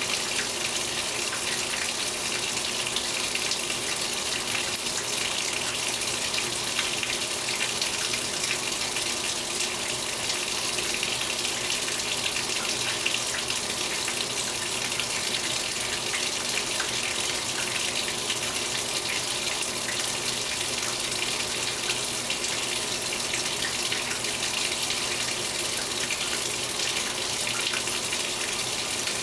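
Water pouring steadily into the tub of a Speed Queen 8 Series top-load washing machine as it fills for a warm wash.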